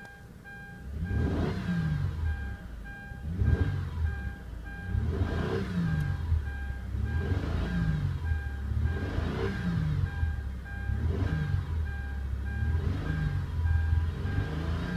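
2005 Kia Amanti's 3.5-litre V6 being revved repeatedly, about seven quick rises and falls in pitch roughly two seconds apart, starting about a second in, and returning to a smooth idle each time. A fast repeated electronic beep sounds throughout.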